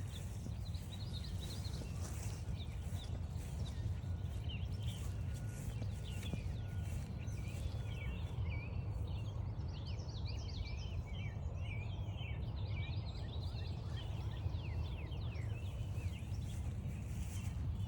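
Several songbirds chirping and singing at once, busiest through the middle, over a steady low rumble.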